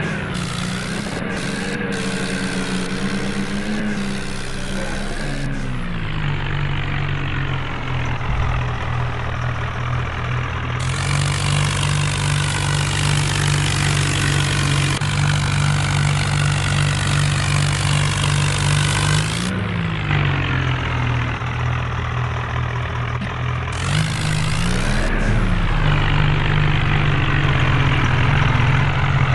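Tractor engine running steadily, its note changing about six seconds in, with brief rises in pitch near 20 and 25 seconds.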